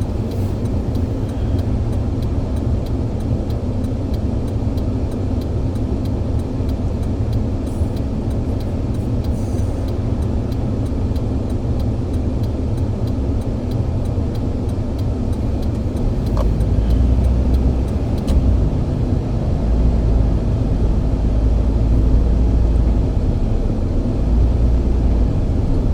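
Steady low rumble of a moving vehicle, growing louder about two-thirds of the way through.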